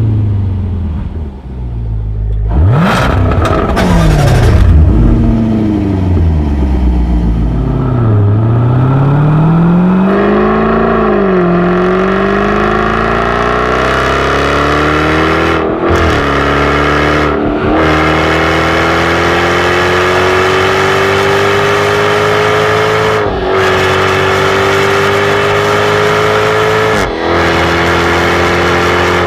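Jaguar F-Type R's supercharged 5.0-litre V8 engine revving: several quick rises and falls in pitch in the first ten seconds or so, then a long steady pull with the pitch slowly climbing, broken a few times by brief dips.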